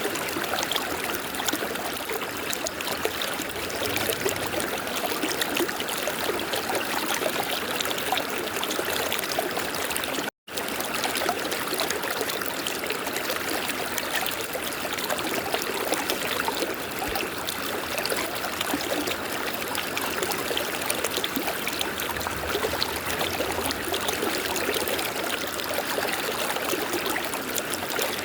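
River water running steadily over rocks, an even rushing and trickling. The sound drops out completely for a split second about ten seconds in.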